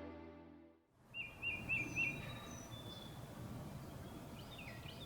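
Soft music fades out within the first second, then steady outdoor background noise with birds chirping: a quick run of four chirps, then several downward-sliding chirps near the end.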